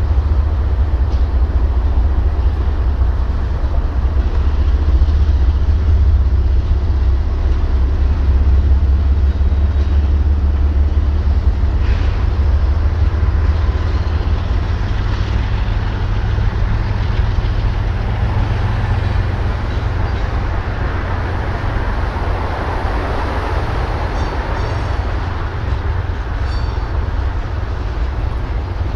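Diesel-hauled freight train running: a steady, heavy low rumble of locomotives and rolling cars, easing off somewhat toward the end.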